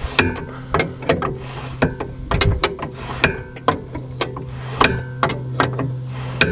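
Hand tools working a coilover's adjusting collar: a run of sharp metallic clicks and clanks at an uneven pace, a few a second, over a steady low hum.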